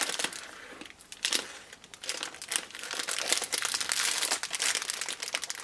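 Plastic wrapping film crinkling as it is handled, gathered and tied with string. It is quieter for a moment about a second in, then crackles densely.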